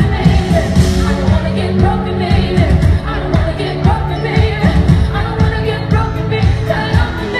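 Live pop band playing with a woman singing the lead, with heavy drums and bass.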